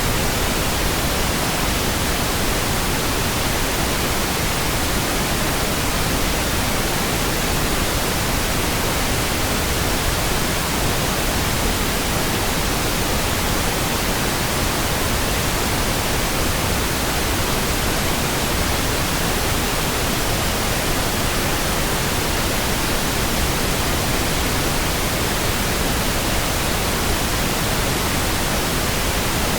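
Steady synthetic pink noise: an even, unchanging hiss with no pitch, rhythm or sudden sounds.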